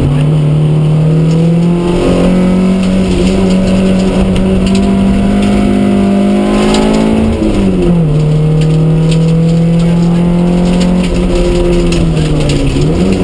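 1400cc Vauxhall Astra Mk2 rally car's four-cylinder engine heard from inside the cabin, pulling hard with the revs slowly climbing, then falling sharply about seven seconds in and holding steady, with a brief dip and rise near the end.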